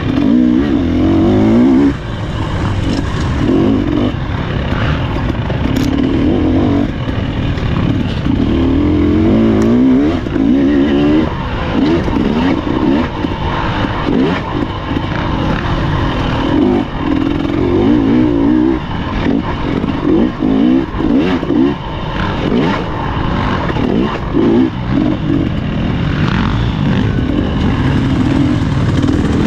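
Husqvarna TE300 two-stroke dirt bike engine under hard riding, the throttle opened and shut over and over so the engine note repeatedly climbs for a second or two and drops, with rough mechanical noise underneath.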